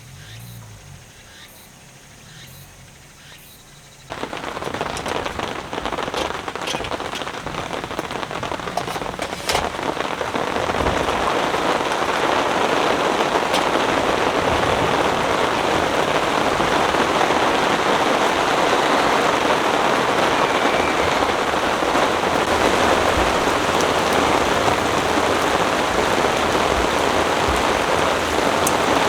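Heavy rain pouring down: it comes in abruptly about four seconds in after a quieter start, then thickens over the next several seconds into a steady heavy downpour.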